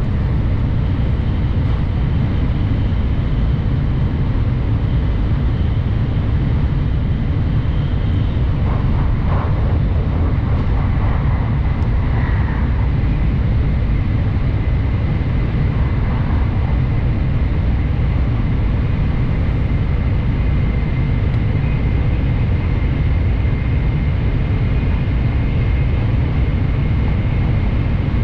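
Steady low rumble of a Kyushu Shinkansen train heard from inside the passenger cabin while it runs, with a faint high whine from about ten seconds in.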